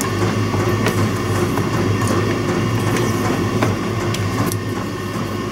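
Steady low mechanical hum with scattered light clicks and handling noises from work on the cable.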